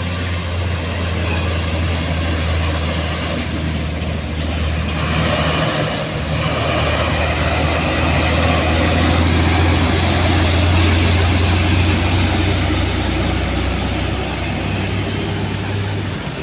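Heavy truck's diesel engine running steadily, getting louder toward the middle, with a thin high-pitched whine above it.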